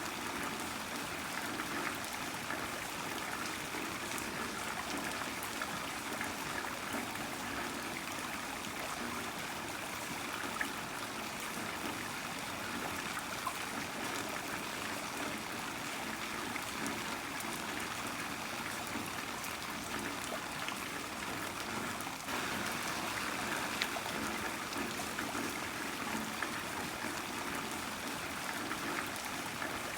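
Heavy rain falling steadily: a dense, even hiss dotted with the ticks of individual drops. It dips briefly about 22 seconds in, then carries on slightly louder.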